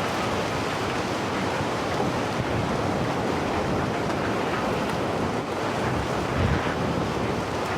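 A steady, dense rushing noise with no distinct events, like a flow of wind or water.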